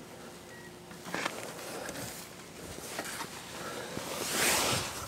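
A few faint clicks but no cranking or engine: the truck's battery is completely flat, so trying to start it gets nothing. A short breathy hiss near the end.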